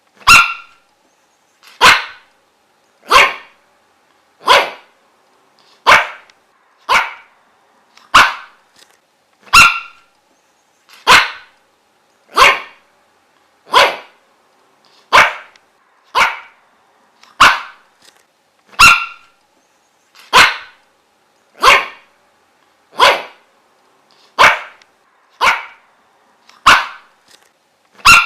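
A dog barking in single short barks at an even pace, about one bark every 1.3 seconds, with silence between them.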